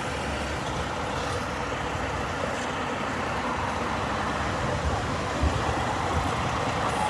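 Steady city street traffic noise: an even wash of vehicle engines and tyres with a low rumble.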